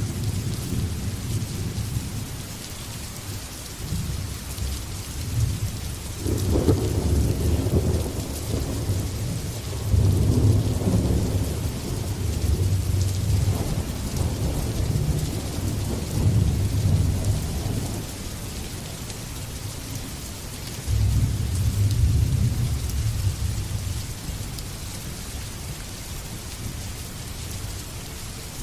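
Steady rain hissing, with rolling thunder rumbling deep and long from about six seconds in to about eighteen, and another shorter rumble a few seconds later.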